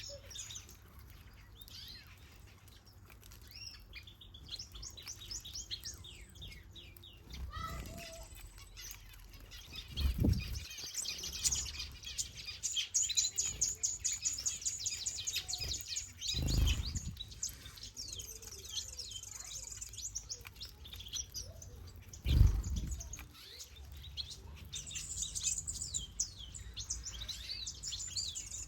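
Aviary finches and cardinals chirping and twittering, many short high calls overlapping. Three dull low thumps about six seconds apart break in partway through; the last is the loudest.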